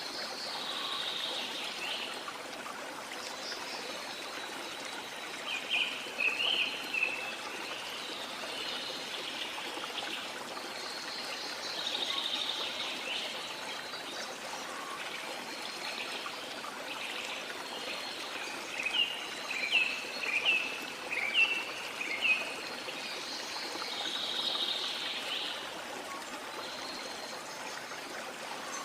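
A waterfall rushing steadily, with rainforest birds calling over it. The birds give bursts of quick, short chirps around six seconds in and again around twenty seconds in, and softer calls come and go.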